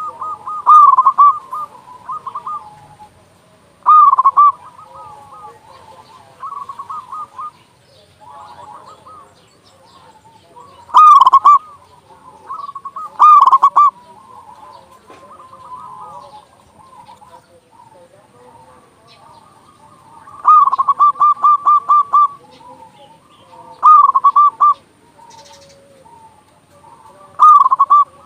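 Local zebra doves (perkutut) cooing: loud, rapid trilled coo phrases every few seconds, one lasting about two seconds near the middle, with fainter cooing between them.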